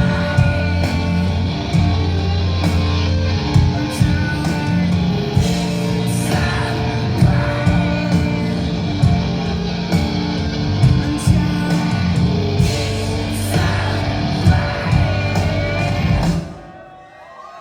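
Live rock band playing loud, with distorted electric guitars, drums and singing; the song cuts off sharply near the end.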